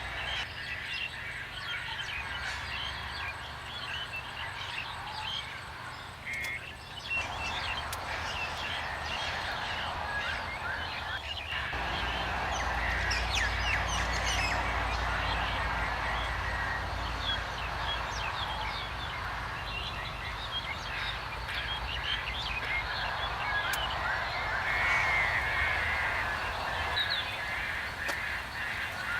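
Common mynas calling, a dense, continuous stream of short chattering and harsh notes, over a low steady rumble that grows louder about twelve seconds in.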